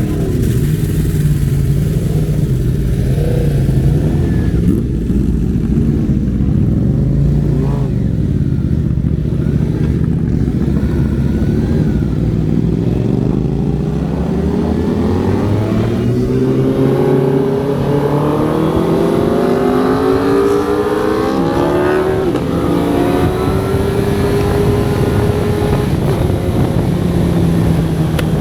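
Suzuki GSX-R 750 inline-four engine running at speed over a steady wind rush. About halfway through its pitch climbs several times in quick succession as the bike accelerates, then holds steady near the end.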